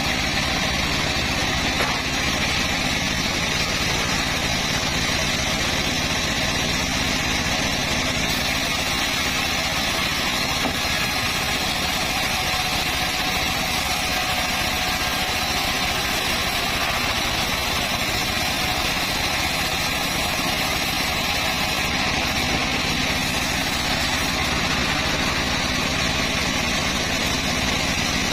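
Band saw running steadily, a continuous machine drone with a hissing high edge that does not change.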